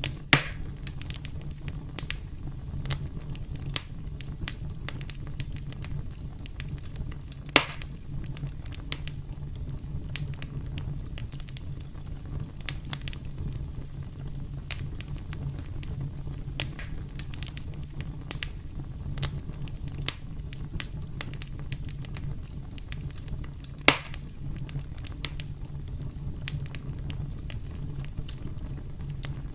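Campfire crackling: wood burning with a steady low rumble and frequent small snaps, and three sharp, louder pops, one just after the start, one about a third of the way in and one near the end.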